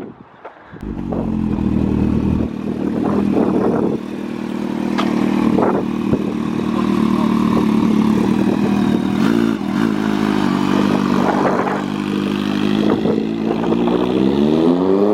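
An engine comes in about a second in and runs steadily at idle, with a few knocks and clatter, then revs up with rising pitch near the end.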